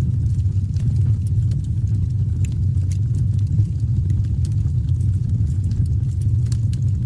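Wood campfire burning: a steady low rumble of the flames with scattered sharp crackles and pops from the logs.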